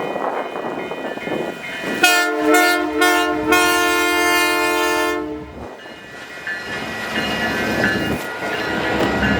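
Locomotive air horn on CP's Holiday Train sounding three short blasts and then one long blast of about two seconds. Wind noise comes before it, and a low train rumble builds near the end.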